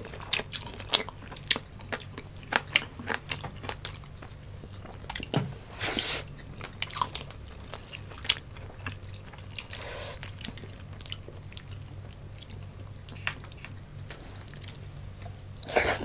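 Close-miked eating sounds: chewing and lip smacking, with many short sharp clicks, as fried tilapia and rice are eaten by hand. A steady low hum runs underneath.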